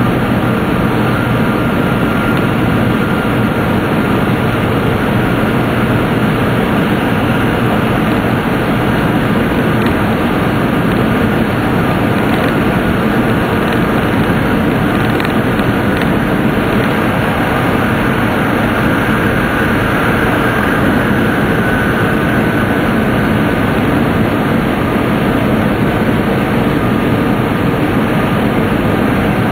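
Tōkaidō Shinkansen train running at speed through a tunnel, heard from inside the passenger cabin: a steady, loud running noise.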